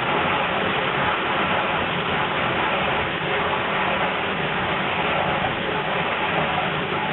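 1953 Thor Automagic combination washer-dishwasher running, a steady rushing noise of water and motor that holds even throughout.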